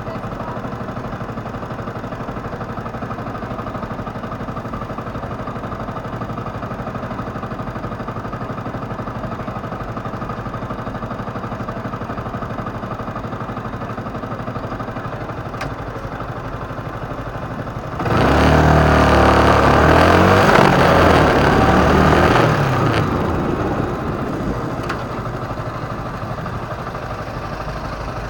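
Motorcycle engine ticking over steadily at low revs, then about 18 seconds in a sudden loud burst of revving, the pitch climbing and then falling over about five seconds before it settles back to a steady low running sound.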